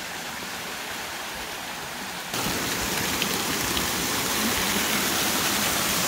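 Waterfall rushing over rock: a steady, even noise that gets louder about two seconds in.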